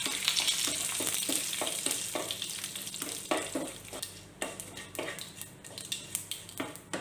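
Mustard seeds, urad dal and curry leaves sizzling in hot oil in a kadai, stirred with a spoon that scrapes the pan in short repeated strokes. The sizzle fades after about four seconds.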